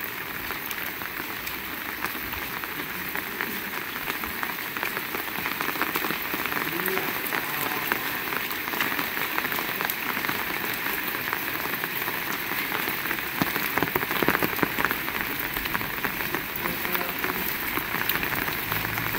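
Heavy rain falling steadily, a dense hiss full of individual drop hits, which grows a little louder after the first few seconds.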